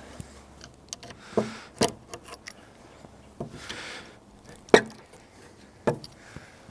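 A hammer knocking a protruding nail into a wooden fence board: about five sharp, separate strikes at uneven intervals, the one a little past the middle the loudest.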